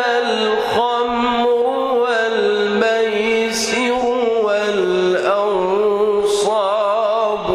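A man reciting the Quran in the melodic mujawwad style, one voice drawing out long held notes that slide and waver in ornament.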